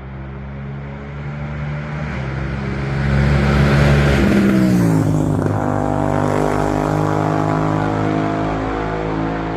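CFMoto Ibex 800 motorcycle with a full aftermarket exhaust passing by. Its parallel-twin engine note grows louder to a peak about four seconds in, then drops sharply in pitch as the bike goes past, and carries on at a steady lower note.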